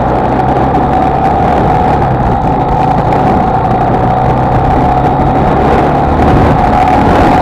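Honda XLR125R single-cylinder four-stroke motorcycle engine running steadily at an even speed while riding.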